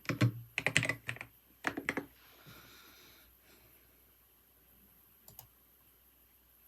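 Typing on a computer keyboard: a quick run of keystrokes that stops about two seconds in. Then a brief soft hiss, and a couple of faint clicks later on.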